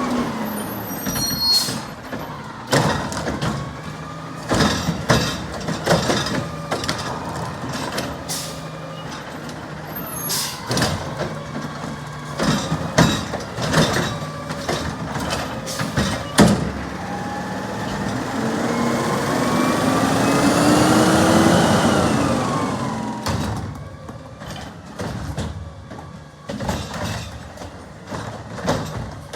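Garbage truck working a stop: a quick run of bangs and clatters, then a rising whine from the engine and machinery that swells and fades past the middle.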